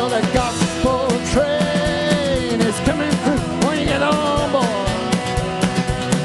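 Live band playing an upbeat gospel rock song: a steady drum beat under a lead melody line that bends and slides in pitch.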